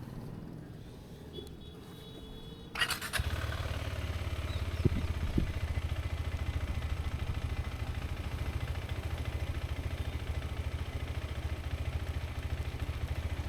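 KTM Adventure motorcycle engine starting about three seconds in, then idling steadily with a fast, even low pulse.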